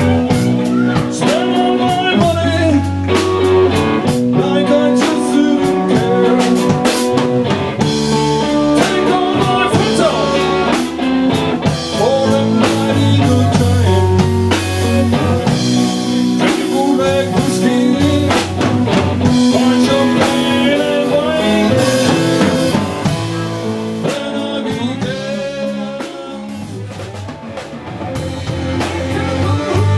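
Texas blues-rock band playing live: guitar over a drum kit. The band drops back briefly a few seconds before the end.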